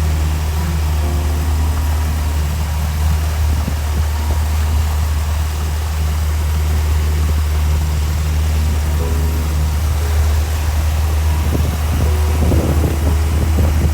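Motorboat engine running steadily with a low hum.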